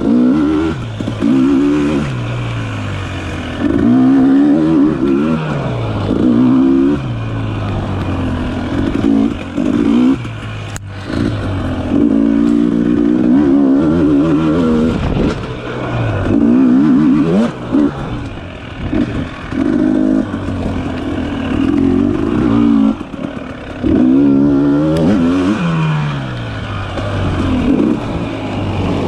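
Dirt bike engine revving up and backing off over and over as the bike is ridden along a winding trail, with a single sharp knock about eleven seconds in.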